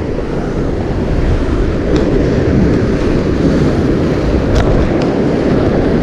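Ocean surf breaking and washing over shoreline rocks, with wind buffeting the microphone: a loud, steady rush with most of its weight in the low end. A few faint clicks sound over it.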